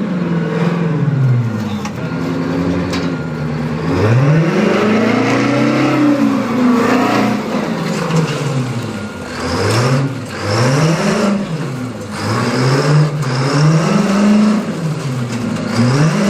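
Euclid R-50 off-highway dump truck's diesel engine revving up and down over and over, with quicker revs in the second half, as the truck drives over junk cars.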